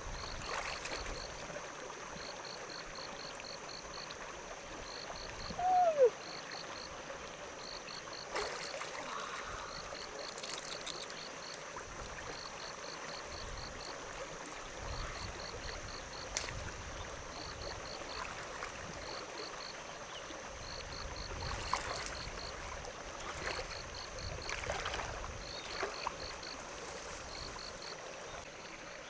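Water trickling and sloshing, with insects or frogs chirping in short repeated groups of pulses over a steady high buzz. A short falling squeak sounds about six seconds in.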